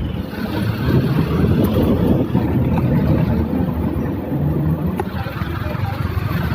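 Steady, loud low rumble of wind buffeting a microphone while riding a bicycle on a road.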